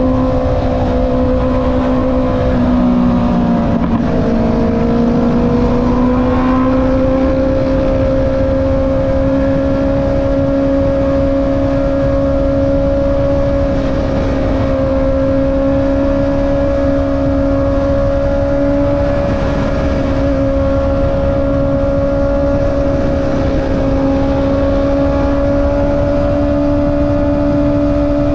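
Honda CB650R's inline-four engine running through an Akrapovic exhaust at steady cruising revs. The pitch drops briefly about three seconds in, then climbs slowly and holds steady, over a low rumble of wind and road noise.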